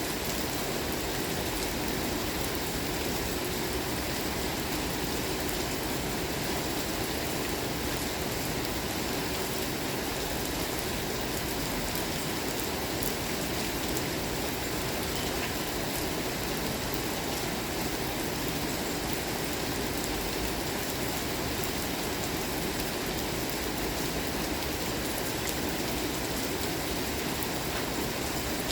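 Steady rainfall, a continuous even hiss of rain with scattered drops ticking on surfaces.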